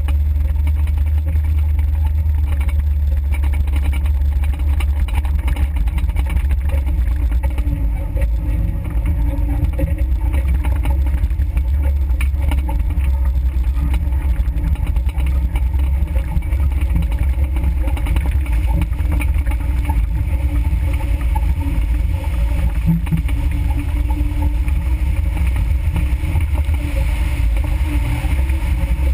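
Suzuki Samurai engine running steadily on a dirt trail, heard through a vehicle-mounted GoPro as a loud, constant low rumble.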